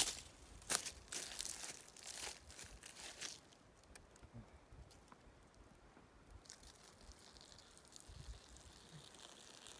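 Close rustling and crinkling for about the first three seconds, then quieter, with a few low rumbles near the end.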